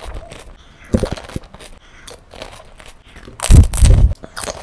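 Close-miked crunching and chewing of panipuri, the crisp hollow puri shells cracking between the teeth. The loudest run of crunches comes about three and a half seconds in.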